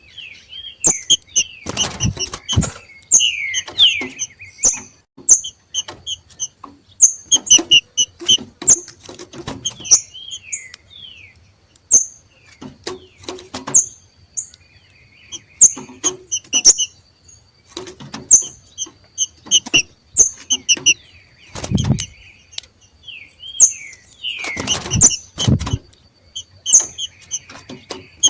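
Two green-winged saltators (trinca-ferro) giving their 'macheado' call: quick runs of sharp, high chip notes mixed with short down-slurred whistles, the chattering call of birds in breeding condition. A few dull thumps fall among the calls.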